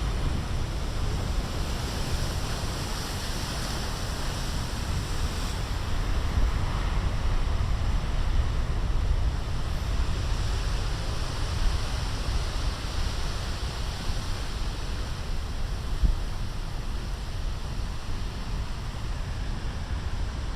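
Big ocean waves breaking and surf washing in, a steady roar with a louder surge of spray about two seconds in. Wind buffets the microphone as a low rumble underneath.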